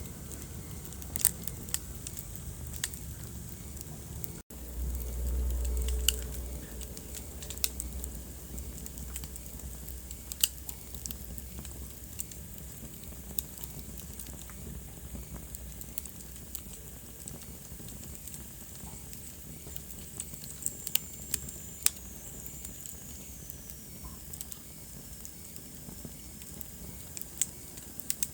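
Wood fire burning in a fireplace, crackling with sharp irregular pops over a low steady rumble. The sound drops out for a moment a little over four seconds in, and the rumble swells louder for about two seconds straight after. A faint high whistle glides down in pitch about two-thirds of the way through.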